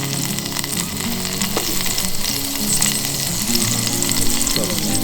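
Sesame oil sizzling steadily in a hot iron pan.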